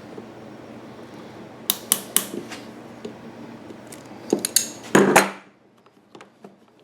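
Sharp metal clicks and clinks of a hose clamp being worked onto a rubber fuel hose with pliers, in a few bunches, the loudest about five seconds in. A steady low background hum stops suddenly near the end.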